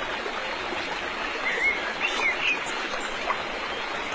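Steady rushing noise like running water, with a few short bird chirps about halfway through.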